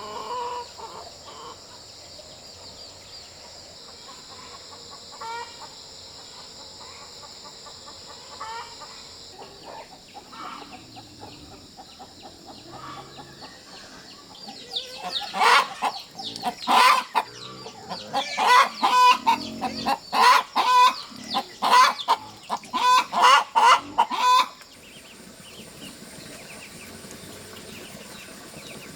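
Chickens calling: scattered soft clucks, then from about halfway a loud run of a dozen or so short repeated squawks that stops abruptly, like a hen cackling.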